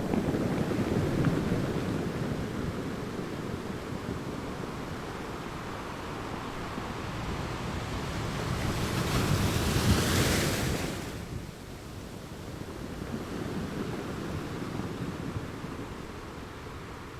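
Ocean waves washing on a shore. A wave swells and breaks about ten seconds in with a bright hiss that drops away suddenly a second later, leaving a lower, steadier wash.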